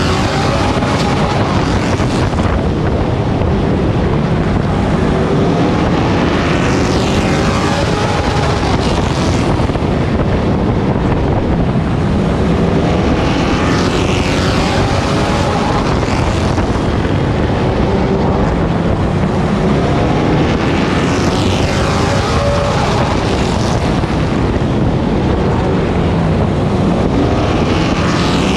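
Onboard sound of a Pro Truck's race engine running hard around a short oval, its pitch rising and falling in a repeating cycle every several seconds as it accelerates and lifts for the turns.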